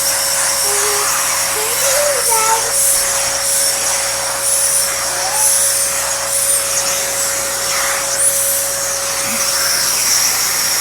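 Dyson Animal vacuum cleaner running steadily with a constant whine, being run over a cat's coat to pull out shed fur.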